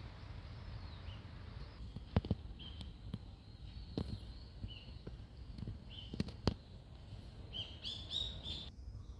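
Small bird giving short, high chirps every second or so, then a quick run of several together near the end. A few sharp clicks sound in between.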